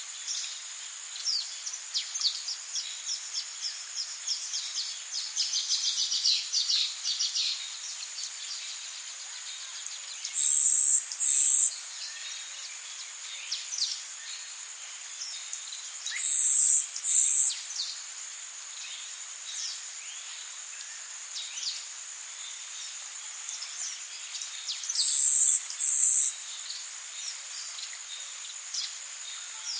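Rainforest insects and birds: a steady high insect drone with scattered bird chirps and a quick run of trilled calls a few seconds in. Three loud double buzzes, each about a second long, come roughly seven seconds apart.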